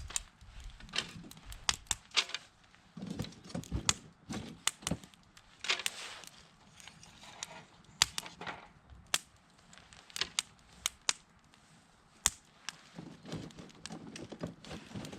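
Dry wood crackling and snapping: irregular sharp cracks, some in quick runs, among a few duller knocks.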